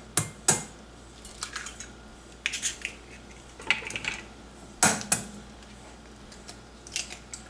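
Kitchen utensils and dishes clinking and clattering: a handful of sharp, irregular knocks, the loudest at the start and about five seconds in.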